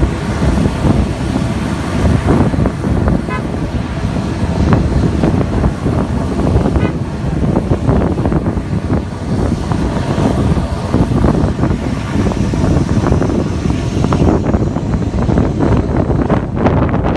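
Jet airliner's engines at takeoff thrust, a loud, steady rush heavy in the low end, with the blast buffeting the microphone. A faint rising whine comes in near the end.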